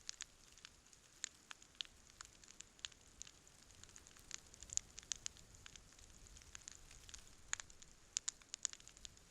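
Wood campfire crackling: irregular sharp pops and snaps over a soft hiss, with a run of closer-spaced pops near the end.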